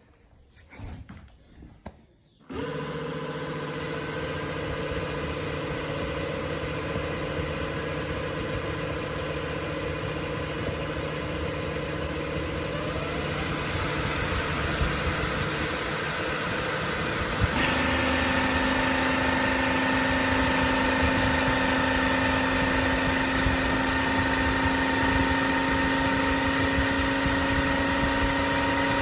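Cordless wet-dry vacuum mop's motor switching on abruptly after a few light clicks, then running steadily with a whir. Partway through it rises a little, and then it steps up suddenly to a louder, higher-pitched setting.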